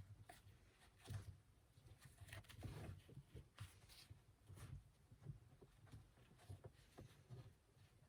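Near silence with faint, irregular rustles and small taps of cord being handled and pulled as a knot in kayak outfitting is tightened and dressed.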